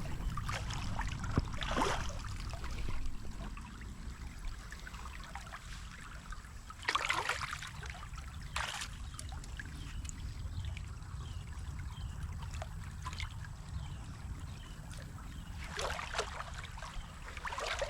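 Shallow creek water trickling steadily, with a steady low rumble and about five louder swishing steps spread through it.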